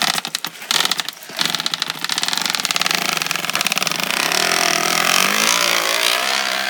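A flattened plastic bottle wedged against a bicycle wheel's spokes, flapped by each spoke as the bike is ridden, making a motorcycle-like rattle. It starts as rapid clicking and quickens into a continuous buzz about four seconds in.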